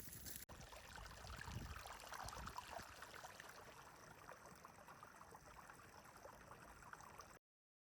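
Faint flowing water, like a small stream trickling, which cuts off abruptly to dead silence near the end.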